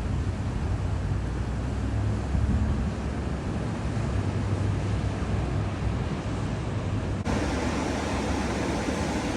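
Ocean surf with wind rumbling on the microphone. About seven seconds in, the sound cuts abruptly to a steadier, brighter hiss.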